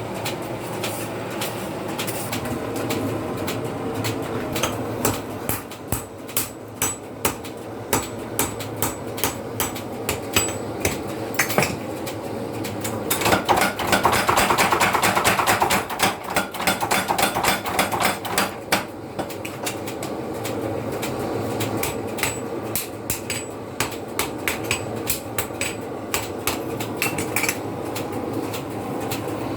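Hammer blows on steel at a blacksmith's anvil while a sickle blade is forged, each strike with a short metallic ring. The blows come in runs of about two to three a second, with a denser, louder stretch of rapid blows around the middle.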